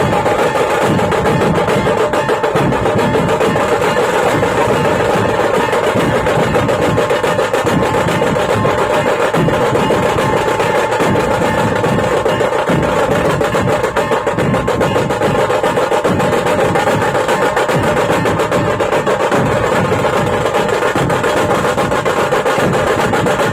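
Fast, continuous drumming with other music over it, dense and steady, without a break.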